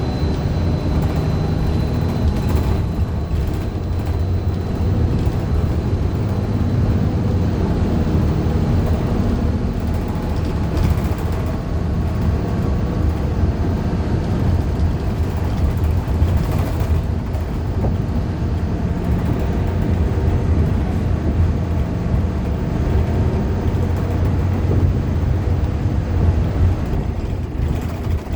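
Inside a 2015 Gillig low-floor CNG bus under way: the Cummins Westport ISL G engine and Allison B400R transmission running with a steady low rumble and road noise. The transmission is described as messed up.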